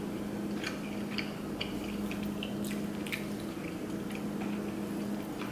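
Quiet chewing of soft food and scattered small clicks of mouths and forks, over a steady low hum.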